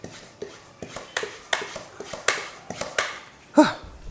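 Hand pump sprayer being pumped up to pressure: a steady run of short plastic clicks and knocks, about two to three strokes a second. Near the end there is a short tone that falls in pitch.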